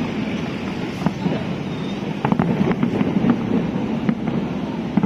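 Fireworks popping and crackling in quick runs, thickest about two to three seconds in, over a steady rush of wind on the microphone.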